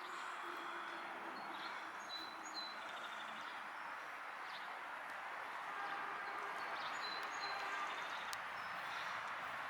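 Steady outdoor background hiss with birds chirping a few short high notes, twice in small groups, and a single sharp click near the end.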